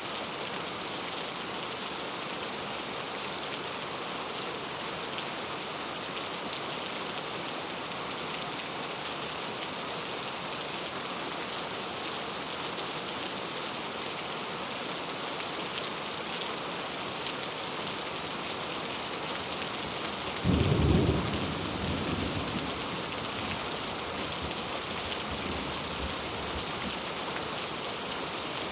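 Steady rain falling, with a sudden clap of thunder about two-thirds of the way through that rumbles away over several seconds.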